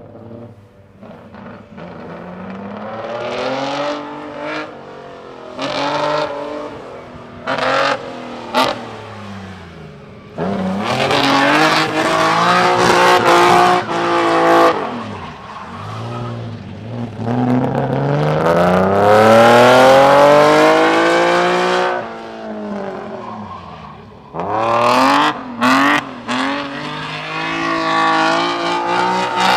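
Nissan Skyline GT-R PGC10's S20 twin-cam straight-six driven hard, its revs climbing and falling again and again, with several short throttle blips in between.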